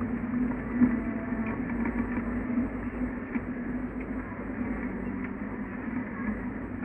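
1974 Ford Pinto's engine running steadily at low revs as the car rolls slowly, heard from inside the cabin as a low drone, with a brief knock about a second in.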